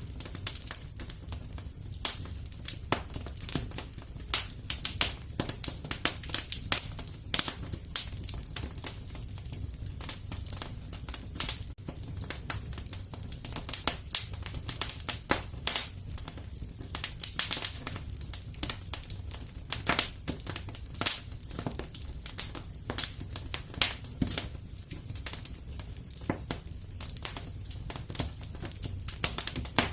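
Wood fire crackling in a fireplace: a steady low rumble of the flames under irregular sharp snaps and pops, several a second.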